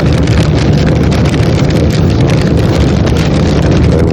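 Airliner cabin noise: a loud, steady rumble of jet engines and rushing air, with a fine crackling over it.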